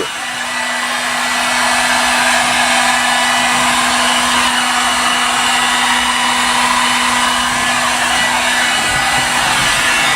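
Electric heat gun running steadily, its fan blowing with a constant hum, heating tar-backed sound deadener to soften it before it is pressed down.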